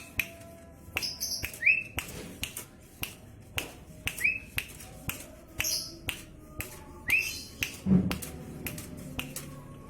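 A small songbird calling: sharp clicks repeated every half second to a second, with short rising chirps between them. There is one low thump about eight seconds in.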